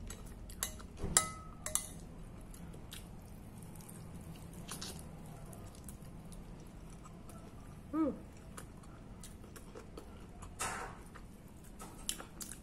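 A metal fork clinks down on a ceramic plate with a brief ring. Then come close-up eating sounds: biting into and chewing a piece of stewed chicken held in the hands, with soft mouth noises.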